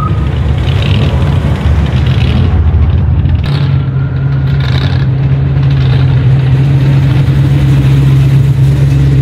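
Classic cars driving slowly past, engines running at low speed. About three and a half seconds in, a steady low engine note from an approaching car comes in and holds as the loudest sound.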